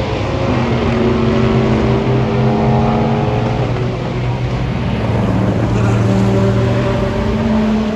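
Racing car engines running at speed on a road course, several engine notes overlapping and shifting in pitch, loud throughout.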